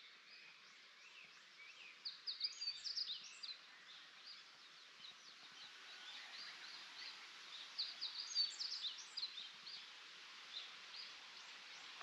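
Small birds chirping and singing in the early-morning dawn chorus. Quick, high, short notes come over a soft background hiss, busier a couple of seconds in and again past the middle.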